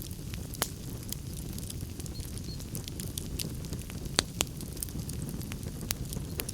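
Wood fire crackling in a fireplace: scattered sharp pops and snaps, a few louder ones about four seconds in, over a steady low rumble.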